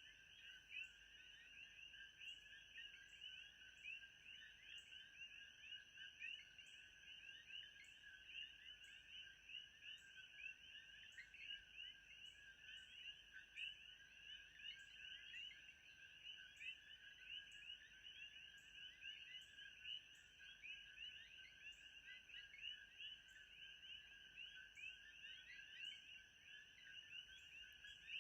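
Faint ambience of a dense chorus of small animals chirping continuously, many short calls overlapping, with a thin steady high tone above them.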